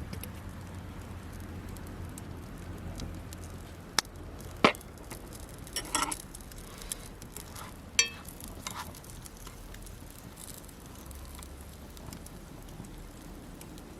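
Camp cooking by a campfire: a handful of sharp clinks and knocks of cookware and utensils, a few ringing briefly, over faint scattered crackle from the fire.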